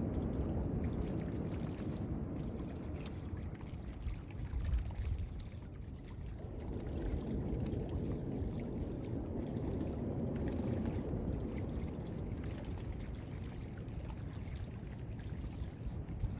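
Ocean surf washing up on a beach, a steady rush that swells and eases with the waves.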